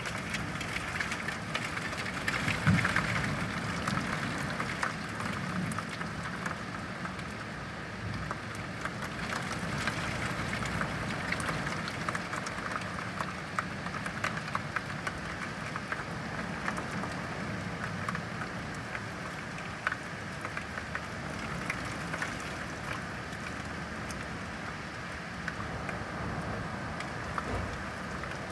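Steady rain falling, with many close drops ticking and a low steady rumble underneath; one sharper knock about three seconds in.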